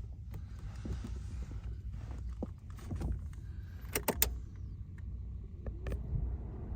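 Sharp clicks and small knocks from handling the car, over a low steady rumble. The loudest clicks come as a quick pair about four seconds in.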